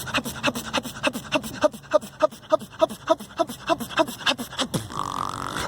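Beatboxing: vocal percussion of fast, even clicks and short breathy pitched blips, about five a second, with a rising hum near the end.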